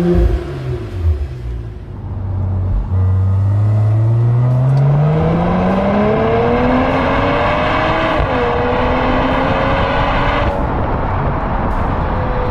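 2022 Mercedes-AMG GLE53's turbocharged inline-six running through a CCP cat-back exhaust. The note falls away with a few sharp cracks in the first couple of seconds, then climbs steadily in pitch over several seconds, drops suddenly about eight seconds in and holds fairly steady.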